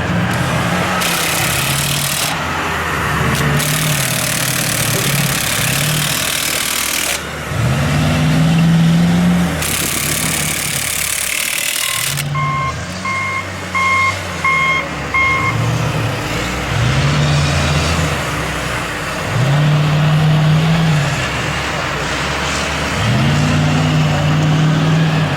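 Heavy truck engine revving up and falling back again and again, with three long, loud hisses in the first half. A reversing alarm beeps five times around the middle.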